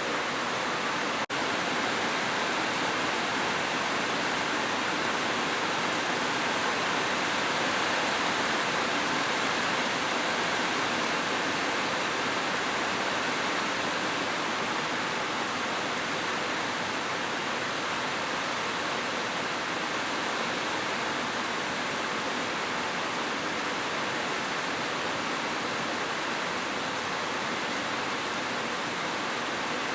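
Heavy rain falling steadily as a dense, even hiss, with a momentary dropout about a second in.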